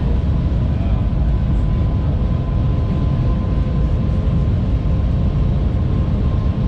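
Shanghai maglev train heard from inside the cabin while travelling at high speed: a steady low rumble of air and carriage noise, with a faint steady whine above it.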